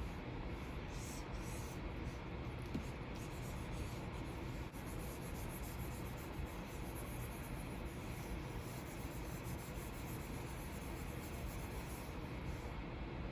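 Stylus nib scratching and rubbing across the textured screen of a Wacom Cintiq 24 Pro pen display in continuous drawing strokes, with an occasional light tick.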